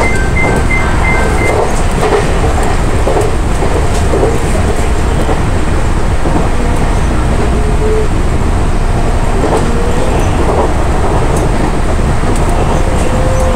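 Electric commuter train running at speed, heard from the front cab: a steady rumble of wheels on rail with occasional clicks over rail joints. During the first second or so, a level crossing's two-tone warning bell dings rapidly as the train passes it.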